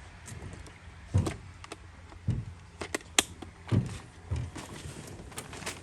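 A few dull, hollow thumps and sharp clicks of people and gear knocking about inside a small jon boat, one every second or so.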